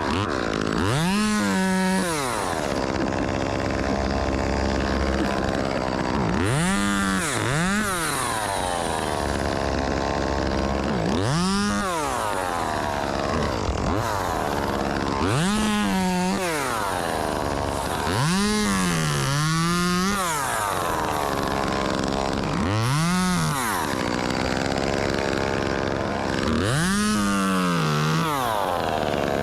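Two-stroke chainsaw revved in short bursts, about seven times, each rising to full speed and dropping straight back to idle, some as quick double blips. A low engine hum runs underneath.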